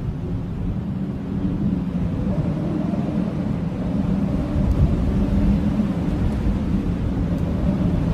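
Blizzard wind howling: a steady low rush with faint wavering tones, slowly growing louder.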